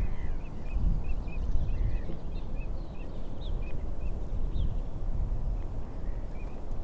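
Small birds chirping, a quick run of short high chirps over the first few seconds and a few more near the end, over a steady low rumble of wind.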